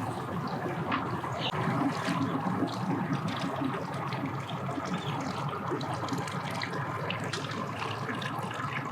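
Water churning and splashing, with a low steady hum under it from a boat's running outboard motor.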